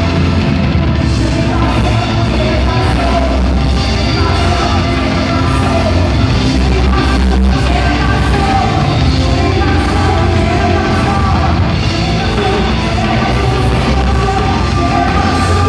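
Loud rock music with a singer, continuous and dense with a heavy low end, with shouting mixed in.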